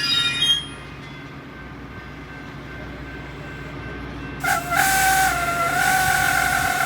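Train wheel squeal dying away at the start over a low rail rumble; about four and a half seconds in, a train horn starts and holds one long, steady note that sags slightly in pitch.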